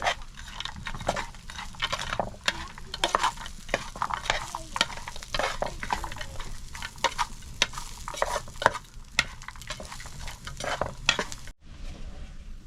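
Many short, irregular scraping strokes against a rough surface, like a tool or brush worked over a wall. They stop abruptly near the end.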